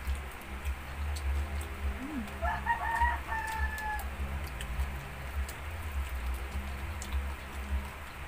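A rooster crowing once, a little over two seconds in: a few quick broken notes ending in a longer held note.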